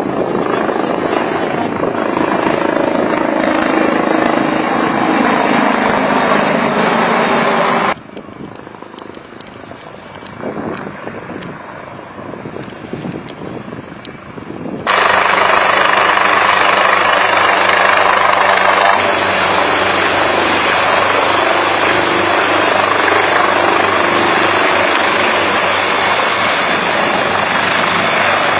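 Helicopter running loud and steady, with its engine and rotor noise spread across a wide range. The sound drops sharply about eight seconds in and comes back just as suddenly about seven seconds later.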